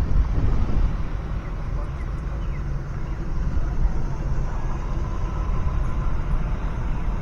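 Low, steady rumble of a car engine running, mixed with wind buffeting the microphone.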